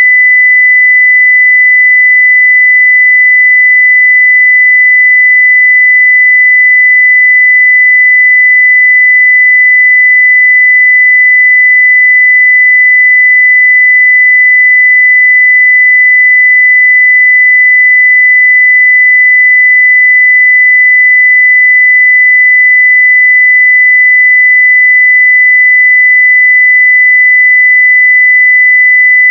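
A continuous 2 kHz sine-wave test tone at full level, one pure steady pitch with no change.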